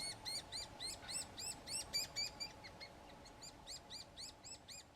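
Olive woodpecker chick begging to be fed: a rapid, even series of high chirps, about three or four a second, growing fainter after the middle.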